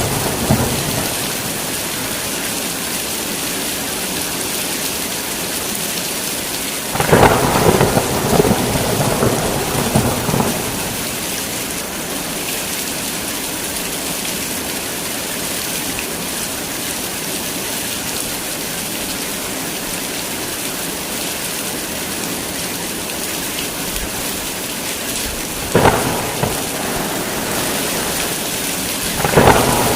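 Heavy rain falling steadily, with thunder swelling about seven seconds in and rumbling for about three seconds. Two shorter, sharper claps of thunder come near the end.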